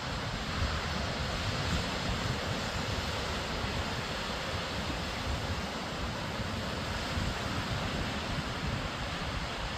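Sea waves washing steadily onto the shore, with wind buffeting the microphone in low, irregular gusts.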